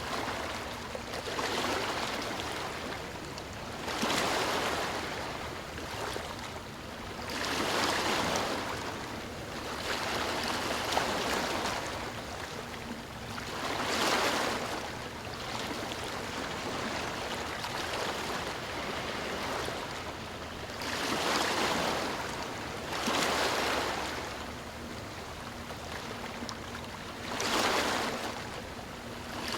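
Ocean waves breaking and washing onto a shore, each wave swelling in a rush of surf every three to six seconds and then falling back.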